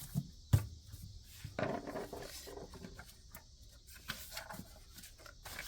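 Paper money and cards being handled: soft rustling and light taps, with one sharp tap about half a second in. Under it, a faint steady high-pitched drone of cicadas coming through an open window.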